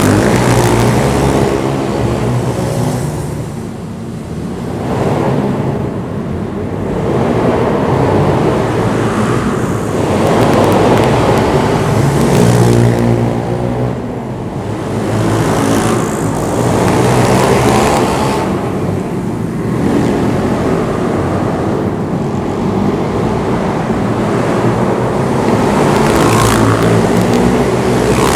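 Pit bike engine running hard, revving up and dropping back over and over, its pitch and loudness rising and falling every few seconds.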